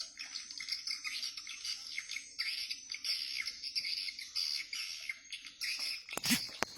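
Swiftlets twittering, a dense chatter of many high chirps overlapping without a break. About six seconds in there is a loud thump.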